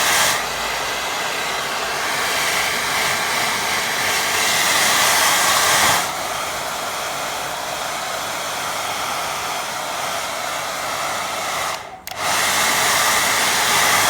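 Hand-held hair dryer blowing steadily to dry wet watercolour paint on the paper; it gets quieter about six seconds in and cuts out for a moment near twelve seconds before coming back louder.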